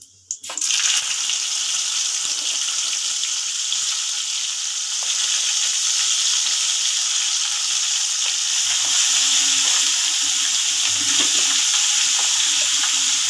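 Boiled broad beans (chikkudukaya) hitting hot tempering oil in a kadai and frying: a loud sizzle starts suddenly about half a second in and stays steady, growing a little louder partway through as the beans are stirred.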